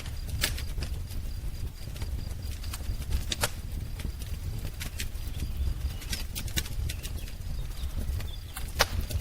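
Wood fire crackling, with irregular sharp pops over a low steady rumble. A faint high, evenly repeated bird chirp sits in the background during the first second or so.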